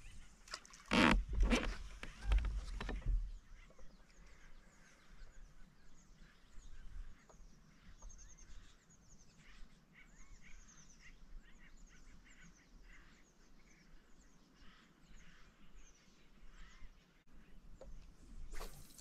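Small birds chirping and singing steadily through most of the stretch. A few louder low thumps and rustles come about one to three seconds in, and a short sharp click near the end.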